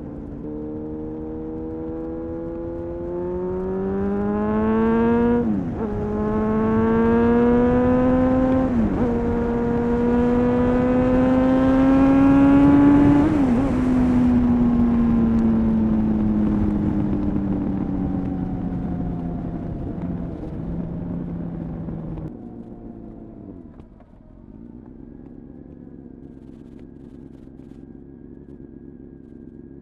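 A Honda CBR929RR's inline-four engine, breathing through a full Erion racing exhaust, accelerating hard through the gears. The pitch climbs and drops sharply at each of three upshifts, then falls away as the bike slows. About two-thirds of the way through the note drops off abruptly, and the engine settles to a low, steady idle near the end.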